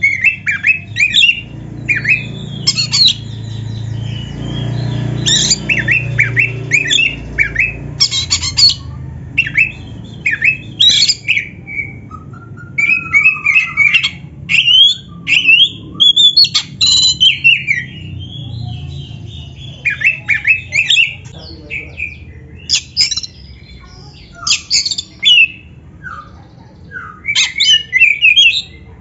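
Oriental magpie-robin (kacer) singing vigorously: a rapid, varied string of short whistled and harsh squawking phrases with brief pauses between them, with a low rumble underneath for the first several seconds.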